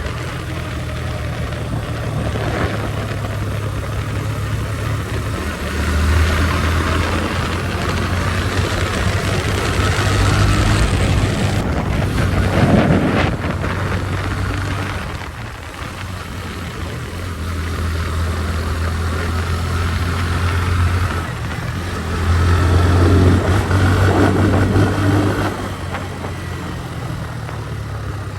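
Motorcycle engine running while riding, with wind rushing past. The engine note swells and eases over stretches of several seconds as the throttle opens and closes.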